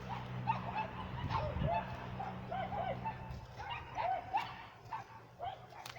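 A dog whimpering and yipping in short, high, arched whines, many in quick succession, over a low steady hum that fades out just past halfway.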